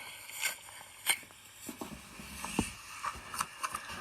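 Slime being handled, with scattered sharp clicks and a few soft squelches, heard as the playback of a slime video through a small device speaker.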